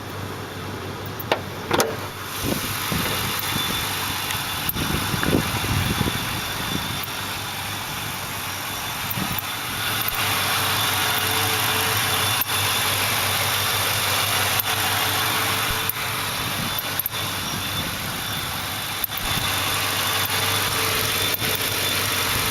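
A few knocks as the hood is opened, then the 1993 Lincoln Town Car's 4.6-litre V8 idling steadily under the open hood, running smoothly despite its high mileage. The engine gets louder about two seconds in and again about ten seconds in.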